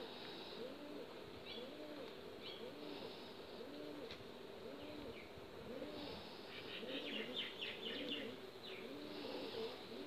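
Birdsong: a bird gives a steady series of low, arched cooing notes, a little more than one a second, while smaller birds chirp higher up, in a quick flurry around seven to eight seconds in.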